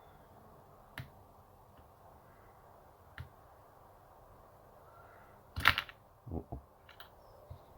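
Small clicks and taps of hand tools on a smartphone's parts during a repair, then a sharper, louder clatter about five and a half seconds in.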